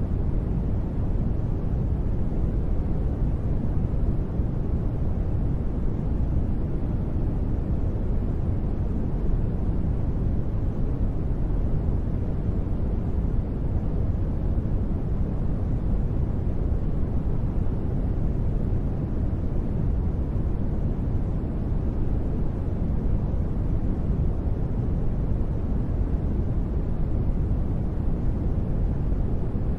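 Steady, unchanging sleep noise, deep in tone with little hiss at the top, running evenly without any sudden sounds.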